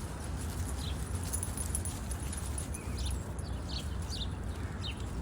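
Small wild birds chirping: short, downward-sliding chirps, one about a second in and then a quick run of several in the second half, over a steady low rumble.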